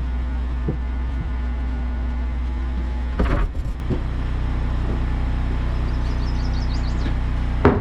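Wood-Mizer LT15 Wide portable sawmill running steadily, its engine giving a constant low drone. A short knock-like sound cuts through about three seconds in.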